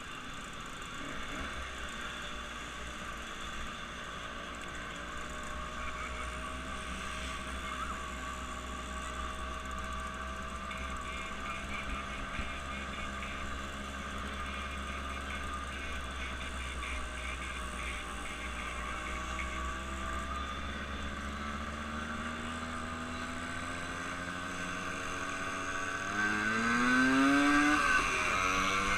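An engine running steadily, then rising sharply in pitch and getting louder near the end as it revs up.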